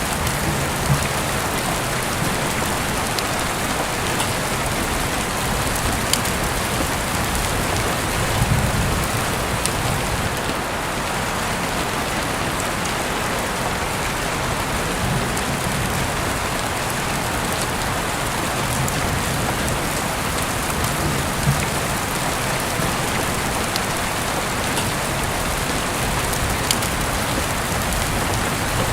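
Steady rain falling on a surface, an even hiss with a few sharp ticks here and there.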